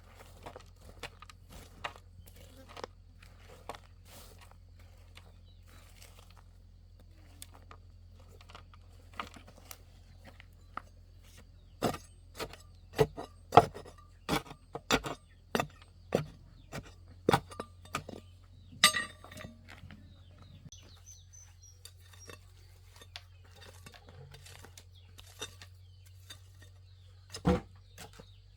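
A run of irregular sharp clinks and knocks, sparse at first, then bunched and loudest in the middle, with one more near the end.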